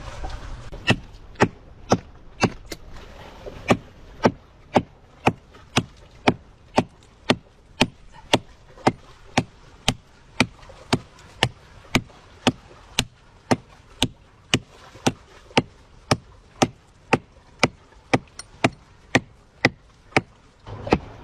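Steady, evenly paced chopping into a hard tree root with a swung hand tool, about two sharp strikes a second.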